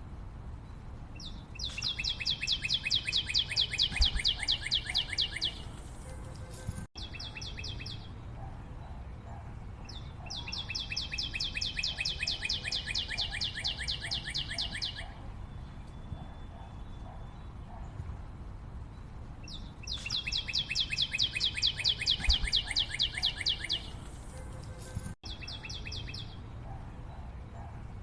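A bird calling in long, fast trills of evenly repeated high notes, three bouts of about four seconds each with pauses between, over a faint steady forest background.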